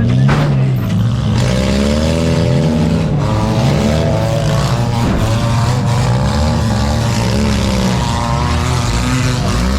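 Several four-cylinder demolition derby car engines revving up and down together over a low rumble, with a few sharp knocks.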